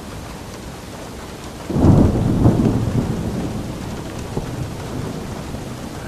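Steady rain falling, with a thunderclap about two seconds in that starts suddenly and rolls off into a fading low rumble over the next few seconds.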